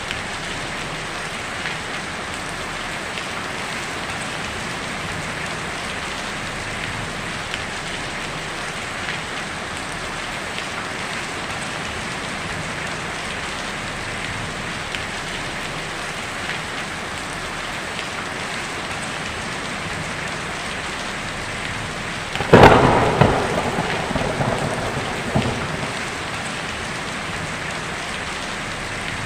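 Heavy rain drumming steadily on a tin roof. About three-quarters of the way through, a sharp, close thunderclap cracks and rumbles for a few seconds.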